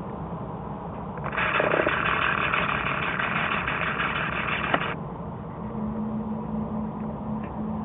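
Jet engines of an Airbus A330-243F freighter running with a steady low rumble. A loud hiss starts about a second in and cuts off suddenly near five seconds, and a steady low hum follows.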